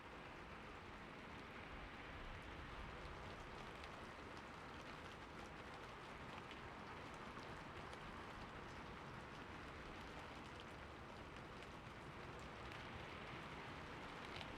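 Steady, fairly soft rain, a continuous hiss with scattered individual drops ticking.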